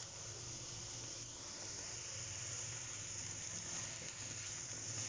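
Chopped green onions sizzling in hot oil in a non-stick pan, a steady frying hiss, with a silicone spatula stirring them near the end.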